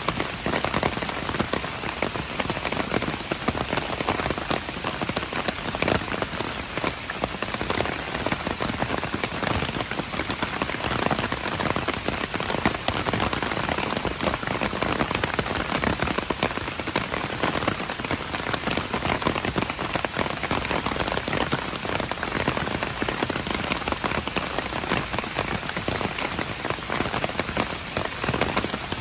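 Steady rain falling, with many separate drops heard striking close by as a dense, even patter of small ticks.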